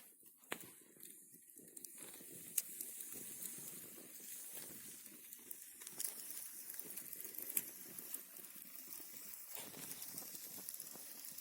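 Wood fire crackling, with frequent sharp snaps and pops over a low flutter of flame and a soft hiss; one louder pop about two and a half seconds in.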